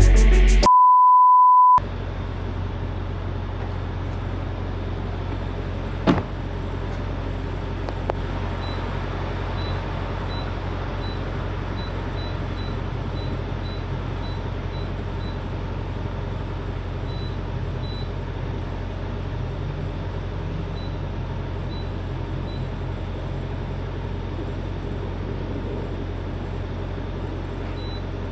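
A single steady beep lasting about a second near the start. Then a semi-truck driving, with a steady low engine and road drone and one short knock about 6 seconds in.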